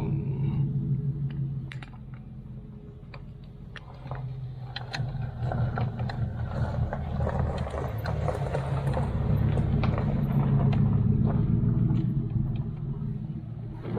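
Honda CBR650R's inline-four engine running, dropping for a couple of seconds and then building up again.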